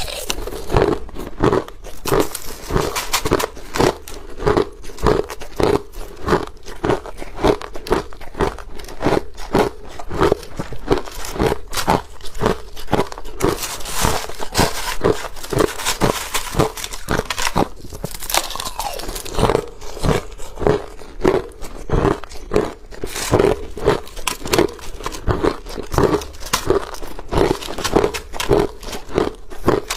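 Ice being chewed: a steady run of sharp crunches, about two a second.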